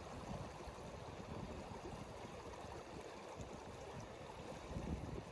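Steady rushing noise of flowing water, with an uneven low rumble underneath.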